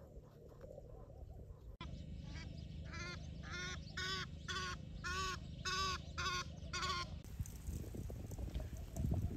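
A bird calling over and over from about three seconds in: about eight short calls, roughly two a second, each rising and falling in pitch. Before the calls there is faint rapid ticking, and after them low rustling with a thump near the end.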